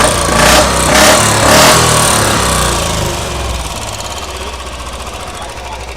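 Royal Enfield Standard's single-cylinder engine running after a timing-gear and shim repair. It swells three times in quick succession, then settles to a steady idle. The earlier kat-kat tapping is gone.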